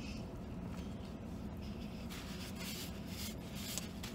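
A man chewing a spicy chicken sandwich and blowing out several short, breathy puffs through pursed lips in the second half, reacting to the heat, over a steady low hum inside a car cabin.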